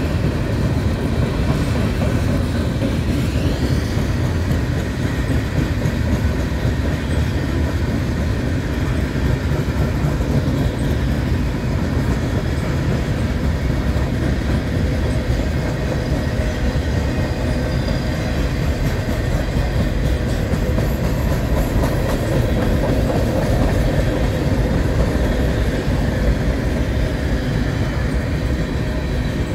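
Freight cars, covered hoppers and boxcars, rolling steadily past: a continuous rumble of steel wheels on rail with clickety-clack over the rail joints.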